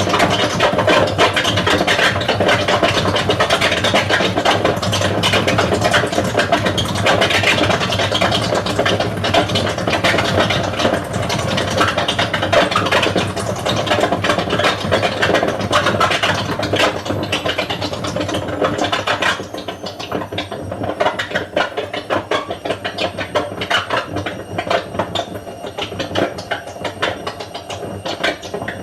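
Hotpoint Aquarius WML540 washing machine on a spin cycle, the motor and drum running with a steady hum and a dense rushing noise. About two-thirds of the way through the rushing drops away, leaving a quieter hum and a faint high whine.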